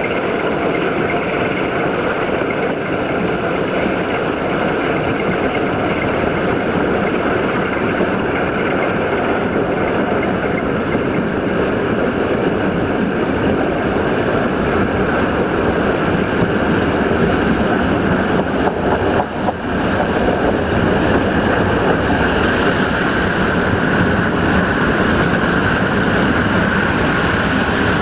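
Steady running noise of a moving passenger train, wheels rolling on the rails, heard from an open window of the train.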